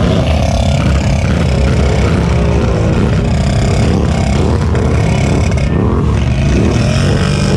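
ATV engines revving hard, their pitch rising and falling again and again, over a steady low rumble.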